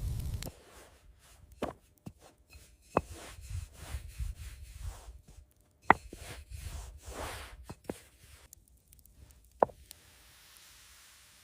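Sparse knocks, clicks and rubbing of food preparation by hand on a wooden surface, four sharp knocks standing out among softer handling noises. A loud rushing noise cuts off at the very start.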